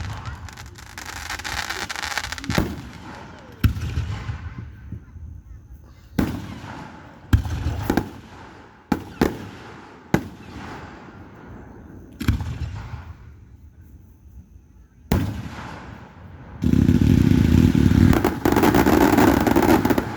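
Aerial fireworks shells bursting: about ten sharp booms a second or two apart, each trailing off in crackle, then a loud unbroken run of bursts and crackle in the last few seconds.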